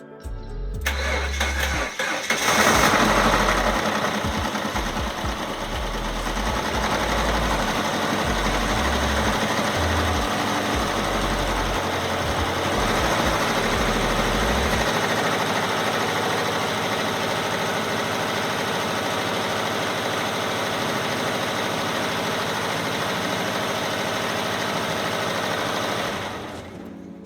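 Subaru flat-four car engine starting about a second in and then running steadily and loudly, dying away near the end.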